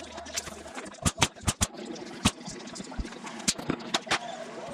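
Hammer striking the camper's wooden frame: about eight sharp, irregular knocks, some in quick pairs, as boards are nailed in or pried out.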